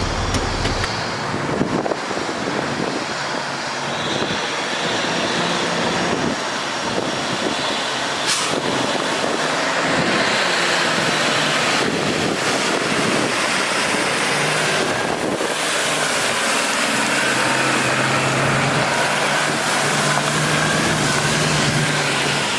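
Freightliner M2 water truck's Cummins ISB diesel running under a loud, steady rushing noise, with the engine hum evening out in the second half.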